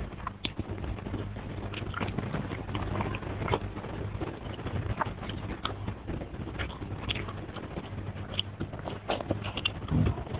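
Close-miked chewing of a mouthful of food, with irregular wet smacks and clicks from the mouth.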